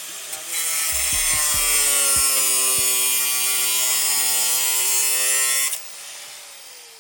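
Hand-held power grinder running under load against metal for about five seconds, a steady whine with a harsh hiss. It is then lifted off, and its whine falls away as the motor spins down.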